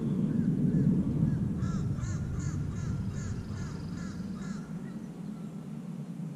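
A bird calling in a quick series of short, arched notes, about three a second, stopping about four and a half seconds in, over a steady low rumble.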